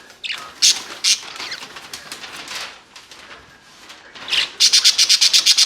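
Pet birds calling in the cage, ending in a loud, fast chatter of rapid repeated calls over the last second or so.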